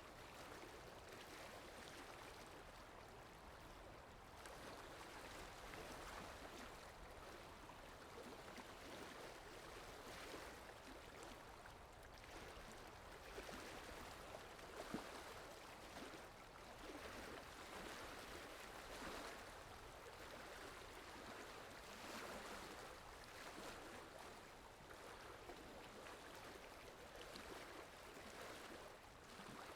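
Stream water flowing and splashing steadily over rocks, a soft constant rushing with faint gurgles.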